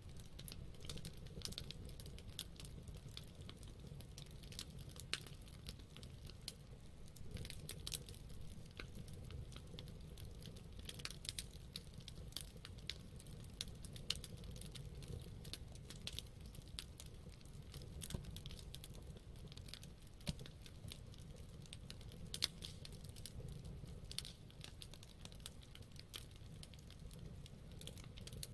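Wood campfire burning, with frequent small crackles and sharp pops scattered irregularly over a low steady rumble.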